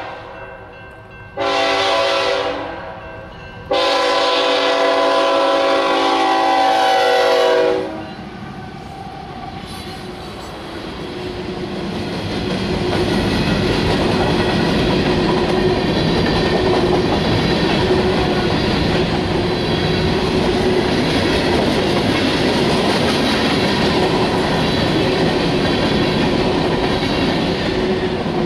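A diesel freight train's multi-chime air horn sounds a short blast and then a long one. The train then draws close and passes with a steady loud rumble and clatter of locomotives and rail cars.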